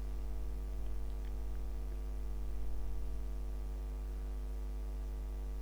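Steady low electrical mains hum with a string of evenly spaced overtones, picked up in the recording chain.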